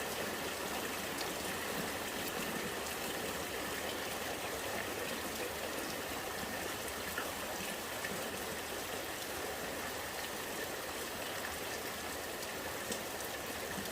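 Rainwater running and gurgling in a steady stream, with scattered drops ticking.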